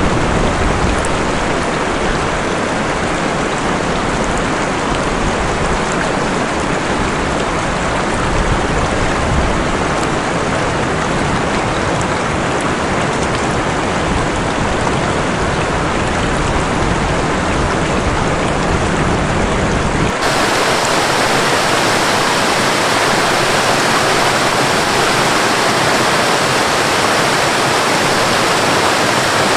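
Steady rush of falling water from a waterfall and rain. About two-thirds of the way through it changes suddenly to a brighter hiss with less low rumble.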